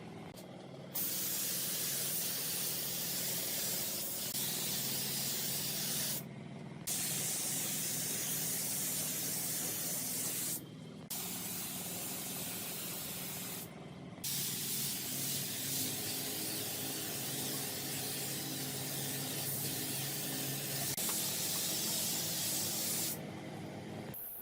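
Spray gun hissing in four long bursts of several seconds each, separated by short pauses, over a steady low hum.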